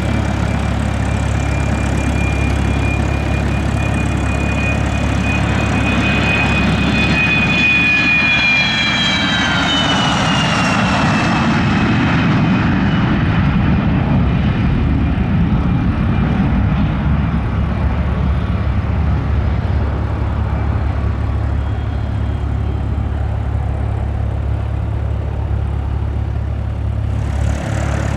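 Private jet's turbofan engines passing by: a steady high whine over a low rumble, the whine falling in pitch as the jet goes past about nine seconds in, then a duller rumble as it moves away.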